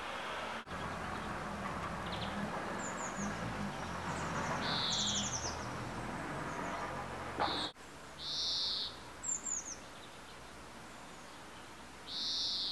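Small birds calling in the cold morning air: a short high call about half a second long repeated three times, with clusters of quick falling chirps between. A steady rushing background sits under the first half and stops abruptly about eight seconds in.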